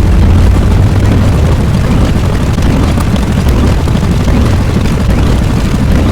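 Loud, continuous low rumble of an explosion-type sound effect, heavy in the bass and without a break.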